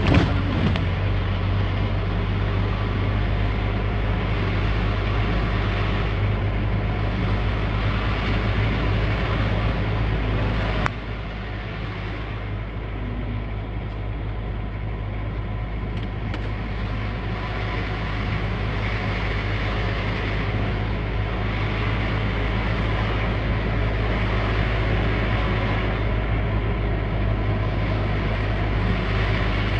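Scania R580 coal-hauling truck's diesel engine running steadily with a deep, even hum. The level drops suddenly about eleven seconds in, then slowly builds back up.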